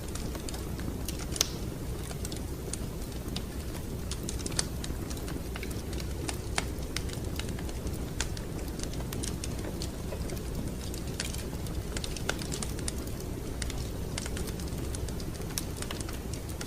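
Wood fire crackling in a fireplace: a steady low rumble of the flames with scattered sharp crackles and pops.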